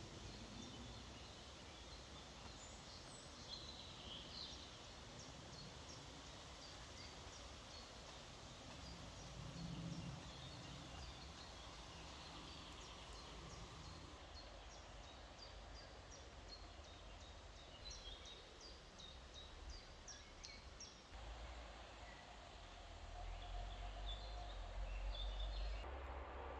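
Faint birdsong: many short, high chirps repeated over and over, over a steady background hiss. A low rumble grows louder near the end.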